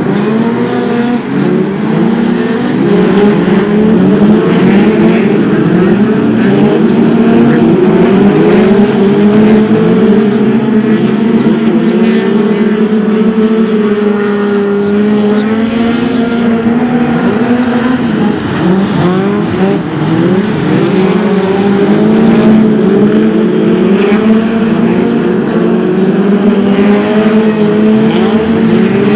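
A pack of BriSCA F2 stock cars racing, many engines revving up and falling back over one another as they go round the track.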